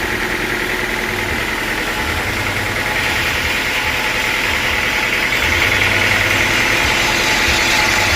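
Sawmill saw machinery running steadily, growing a little louder about three seconds in.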